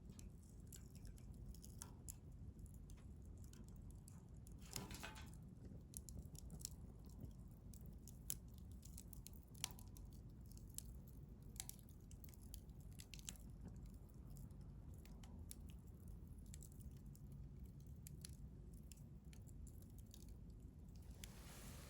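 Wood fire burning in a stainless steel fire grill: faint, irregular crackles and pops over a low, steady rumble, with a slightly longer crackle about five seconds in.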